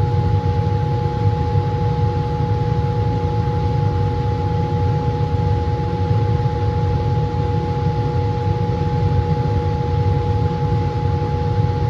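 Laminar flow hood blower running with a steady roar, its low rumble carrying two constant hum tones.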